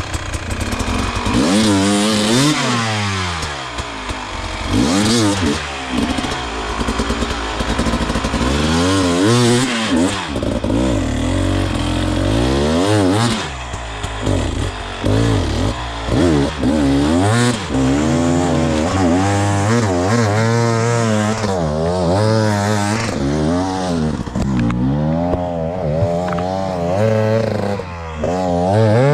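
Dirt bike engine revving up and down over and over, the throttle opened and shut every second or two, as ridden over hard enduro terrain.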